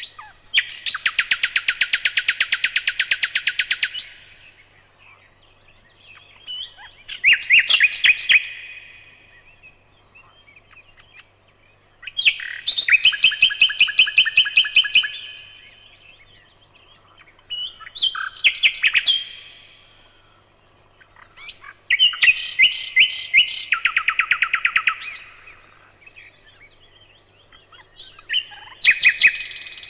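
Nightingale singing loud song phrases separated by pauses of a few seconds. Each phrase is a fast run of repeated notes or a rattling trill, and the phrases change in pitch and pattern from one to the next; about six phrases in all.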